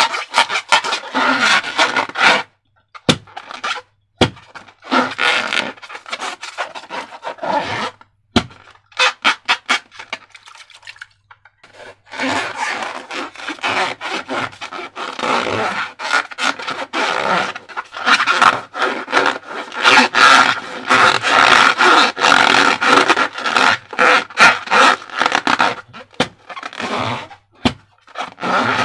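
Slime being squeezed and worked by hand, in fast, irregular wet squelches and crackles, with a short pause and then a longer lull around a third of the way in.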